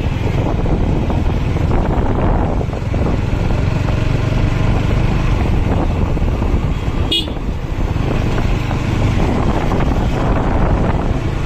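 Steady engine and road-traffic noise from motor vehicles, with one short, high horn toot about seven seconds in.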